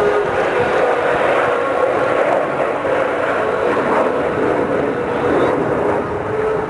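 Avro Vulcan's four Bristol Olympus 202 turbojet engines running loud and steady as the bomber flies its display, with a steady pitched note underneath.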